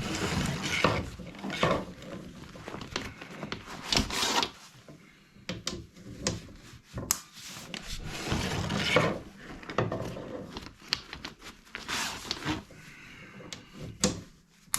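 Chimney sweep's brush being worked inside a chimney flue to break up and pull out a bird's nest: irregular scraping and rasping against the flue, with scattered sharp knocks.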